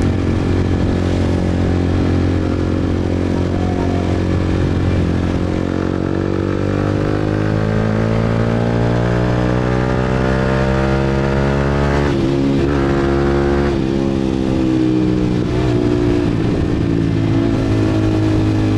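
150 cc motorbike engine under hard acceleration. Its pitch climbs steadily through the middle, changes around a gear shift about twelve seconds in, then runs on steady.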